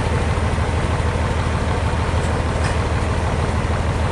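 A large engine running steadily at idle: a low, evenly pulsing drone.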